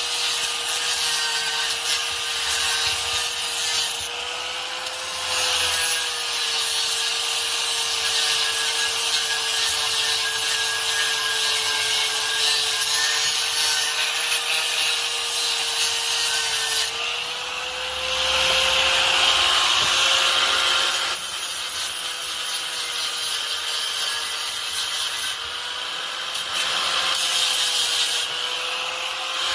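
Power tool running steadily with a whine and a harsh scraping hiss as it works on metal, in long passes broken by a few short pauses.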